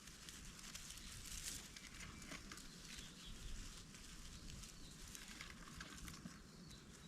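Faint scattered rustles and light clicks over a quiet outdoor background, from mushroom picking in undergrowth.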